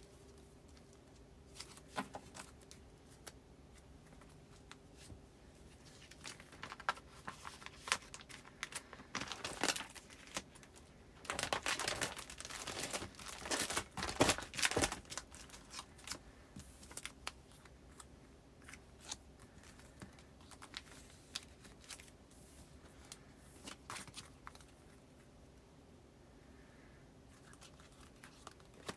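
Postcards and paper goods being handled and slipped into a file's pockets. There are scattered light clicks and taps, with a louder stretch of continuous rustling around the middle.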